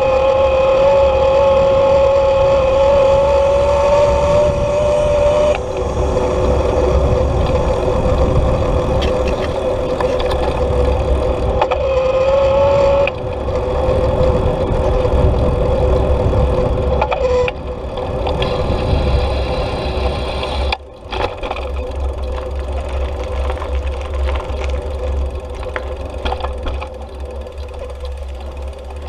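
Wind rumbling on the microphone of a moving bicycle, with a steady mechanical whine that cuts out after about five seconds, comes back briefly and stops about halfway through.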